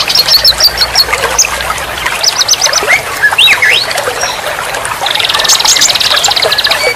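Several songbirds singing over a steady trickle of running water: quick whistled notes that rise and fall, and a long, rapid, buzzy trill about five seconds in.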